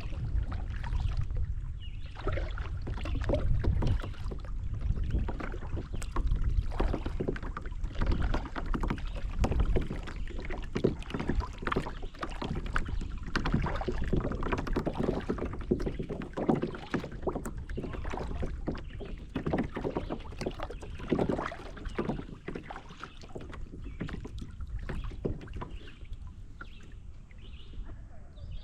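Kayak paddle dipping and splashing in river water, stroke after stroke at an uneven pace. A low rumble sits underneath, heaviest in the first ten seconds.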